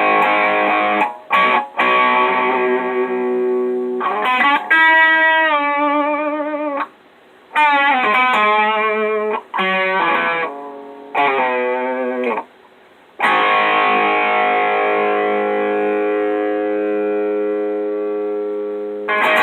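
Electric guitar played through an Electro-Harmonix Screaming Bird treble booster, with a bright, distorted tone. Ringing chords give way to single notes bent with vibrato, broken by short pauses. Near the end a last chord is held and slowly fades.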